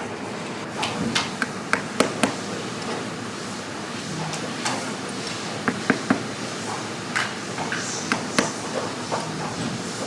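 Irregular light knocks and clicks over a steady background hum.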